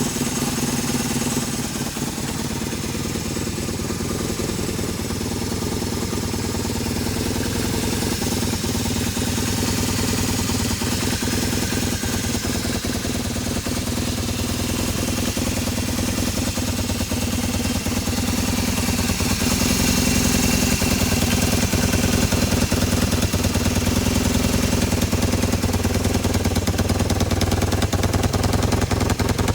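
1978 Kawasaki KZ750 parallel-twin engine idling steadily after its first start in a long time, getting somewhat louder about two-thirds of the way through.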